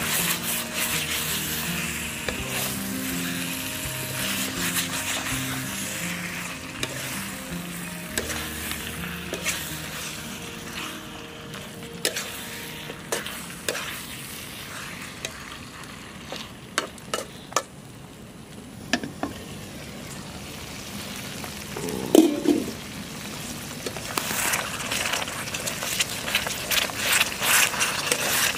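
Spiced chicken pieces sizzling and frying in a kadai while a spatula stirs and scrapes them against the pan, with scattered clicks and scrapes and one brief louder knock about two-thirds in. The sizzle grows denser near the end.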